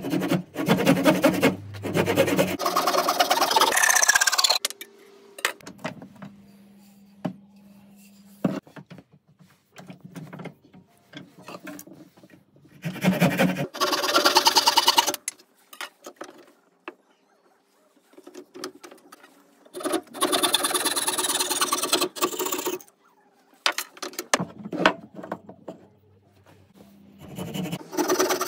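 Small motorised workshop tool run in about five bursts of two to three seconds each, with quiet pauses between them.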